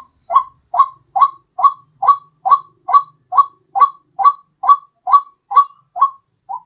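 White-breasted waterhen (ruak-ruak) calling: a fast, even run of about sixteen short, identical notes, a little over two a second, the last one fainter.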